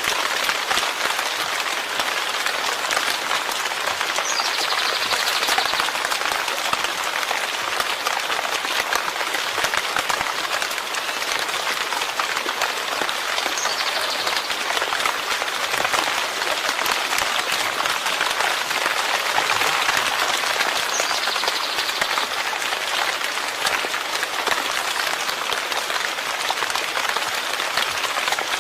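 Steady, even rain falling: a dense hiss of many drops that does not let up.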